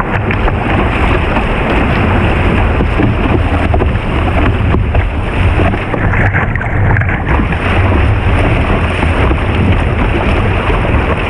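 Steady rushing of river whitewater, with heavy wind buffeting on the microphone.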